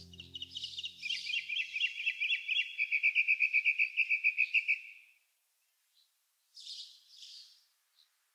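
A small bird singing a fast trill of repeated chirps, about six a second, for some five seconds, then falling silent apart from two short faint sounds near the end.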